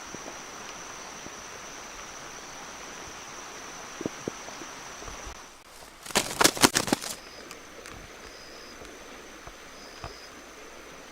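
An insect trills steadily at a single high pitch over a soft outdoor hiss. About six seconds in, a loud rapid burst of sharp clicks and knocks lasts about a second, after which the trilling returns with short repeated chirps.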